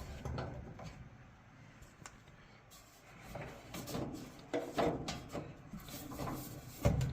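Scattered clicks, light knocks and rubbing as a dryer drive belt is worked around its spring-tensioned idler pulley by hand, with a dull thump near the end.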